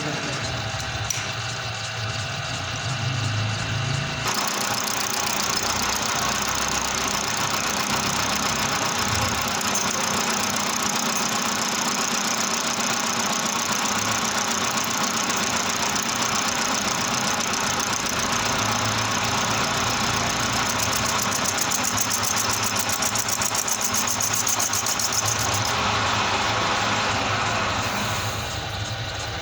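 Manual metal lathe running. About four seconds in, a tool starts cutting the spinning stainless steel plate, adding a steady high-pitched cutting noise that lasts about twenty seconds and dies away near the end.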